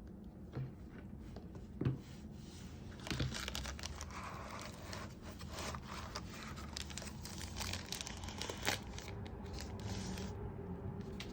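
Packaging being handled during an unboxing: plastic or paper wrapping crinkling and rustling, with a few knocks and sharp clicks.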